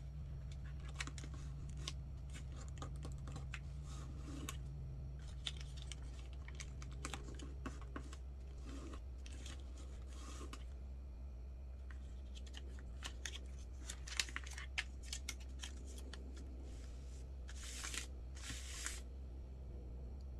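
A sheet of printer paper being folded and creased by hand: small crackles and taps throughout, with two longer scratchy swishes near the end as a fold is pressed flat.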